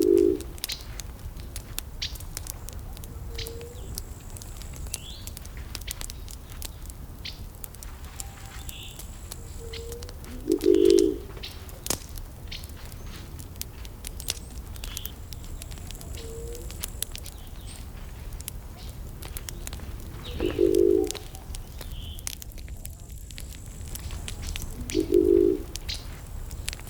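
Wood fire crackling and popping in a steady stream of small sharp cracks over a low rumble. A low-pitched bird call sounds four times, each about half a second long and the loudest sound each time, with a few faint higher chirps.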